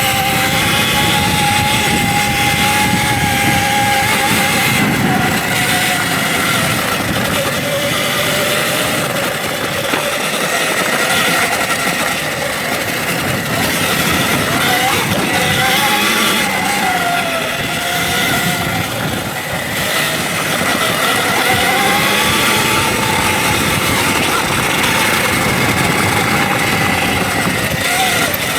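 Electric dirt bike riding a trail: a motor whine that rises and falls in pitch with speed over a steady, noisy rush.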